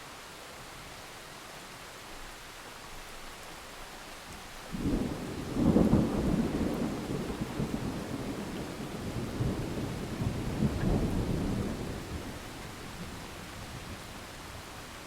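Steady rain hiss, with a peal of thunder breaking in about a third of the way through. The thunder rolls on unevenly, deep and rumbling, and dies away after about seven seconds.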